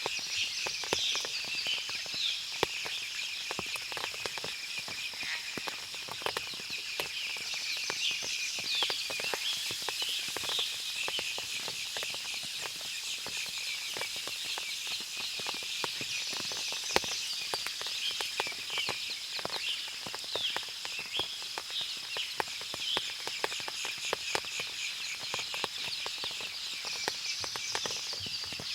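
Forest ambience after rain: many birds chirping and calling over a steady high-pitched insect drone, with scattered sharp clicks throughout.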